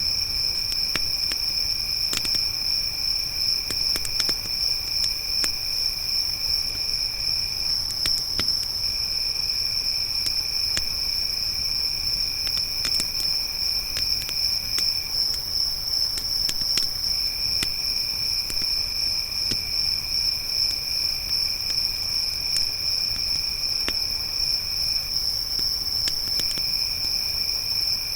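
Crickets trilling in a steady, unbroken high chorus, with a second, lower insect trill that stops and restarts three times. Scattered faint pops and crackles from a campfire come through now and then.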